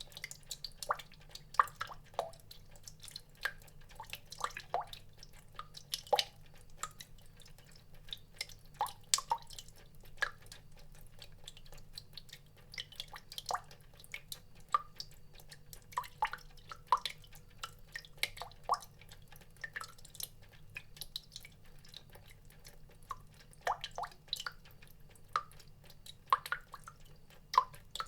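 Water drops falling one by one at an irregular pace, each a short sharp plip, a few a second at times, over a faint steady low hum.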